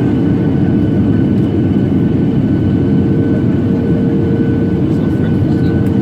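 Steady cabin roar of a Boeing 737-800 in flight, heard from a window seat: its CFM56 jet engines and airflow making a constant deep rumble with a few faint steady whining tones above it.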